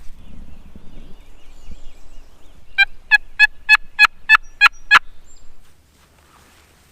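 A run of about eight loud, evenly spaced turkey yelps, each a short pitched note, over about two seconds starting near the middle.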